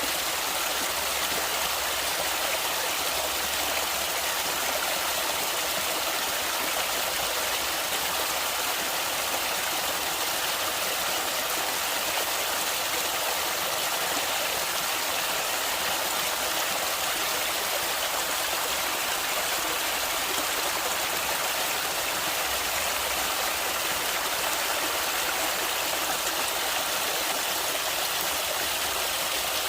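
Flowing stream water rushing steadily, an even hiss carried mostly in the upper range with little low rumble and no breaks.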